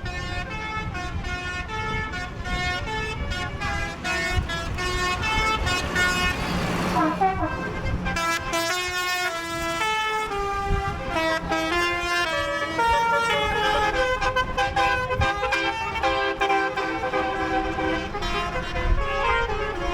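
A loud tune of stepped, horn-like notes played from a passing vehicle over low diesel engine rumble, with a falling pitch glide about seven seconds in.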